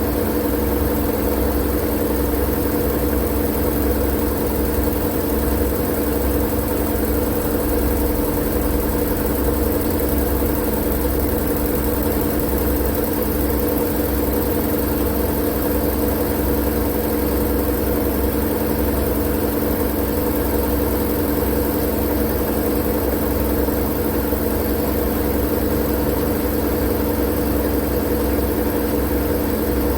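Steady white noise with a constant low machine-like hum and rumble under it, unchanging throughout.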